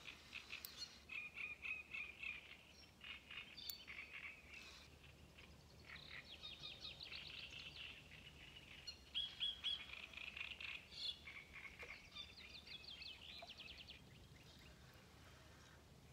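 Several birds singing, with quick repeated chirps and rapid trills, some louder near the middle.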